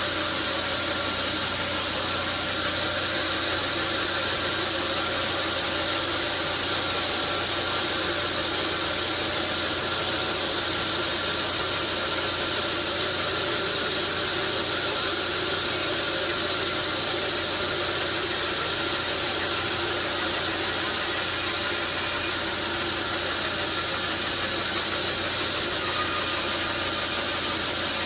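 Sawmill machinery running steadily: a constant engine-like hum under a dense hiss, holding the same level throughout.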